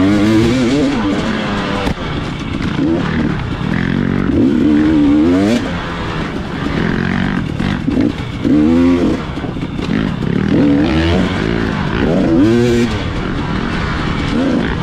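Dirt bike engine being ridden on a trail, revving up and dropping back again and again as the throttle is opened and closed. A rush of noise runs underneath it.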